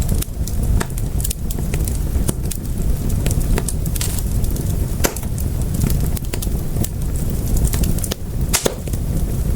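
Wood fire in a fireplace crackling: irregular sharp pops over a steady low rumble of flames, with the loudest pops about five seconds in and near the end.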